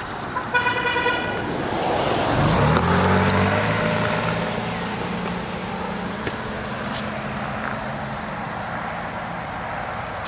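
A short vehicle horn beep about half a second in, then a motor vehicle engine passing close, loudest about three seconds in and slowly fading.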